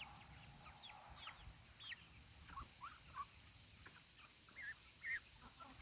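A flock of chickens calling softly: many short, high, falling calls, loudest a little after five seconds in.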